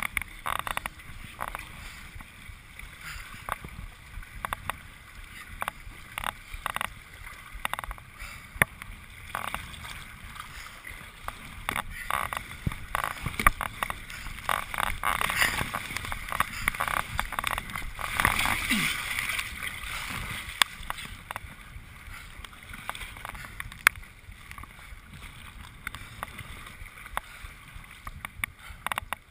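Kayak on the water: paddle strokes and water splashing and lapping against the hull, with scattered sharp knocks. It grows louder and busier for several seconds in the middle.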